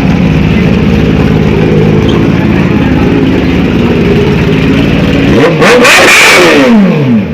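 Motorcycle engines running steadily, then about five and a half seconds in a loud superbike revs hard and passes close by, its pitch falling steeply as it goes.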